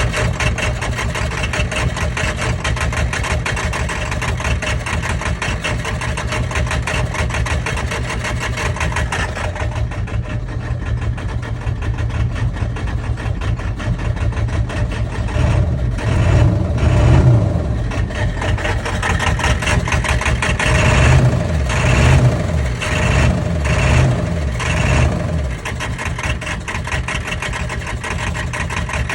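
1999 Ford 7.3 Power Stroke turbo-diesel V8 running rough, with a dense, uneven pulsing and several louder swells in the second half. The owner suspects bad injector o-rings as a possible cause.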